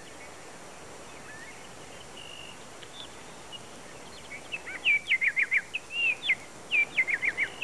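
A songbird singing over a steady background hiss. It gives a single short whistle early on, then from about halfway through a lively run of quick chirps and slurred rising and falling whistles.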